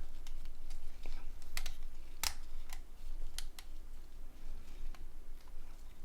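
Scattered small clicks and taps of plastic phone parts being handled and fitted together during reassembly, the sharpest about two seconds in.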